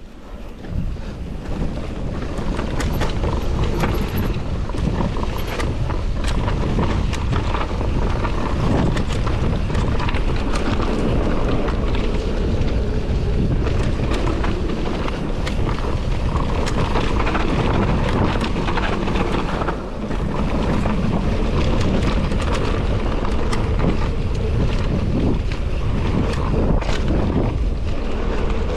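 Mountain bike descending a trail: wind buffeting the microphone and tyres rumbling over dirt and rock, with many sharp clicks and rattles from the bike over bumps.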